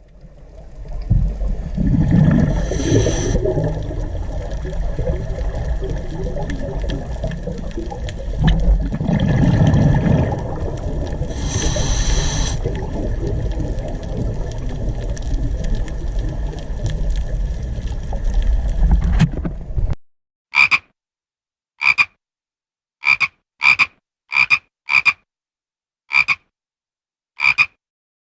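Animal calls: two longer calls over a steady noisy background, then, after the background cuts off at about 20 s, eight short, sharp calls with silence between them.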